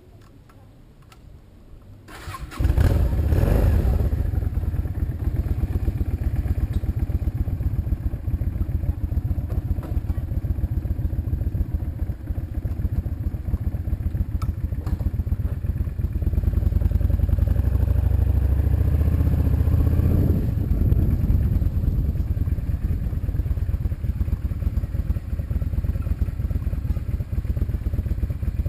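A vehicle engine starts about two seconds in, then runs steadily with a loud, low rumble.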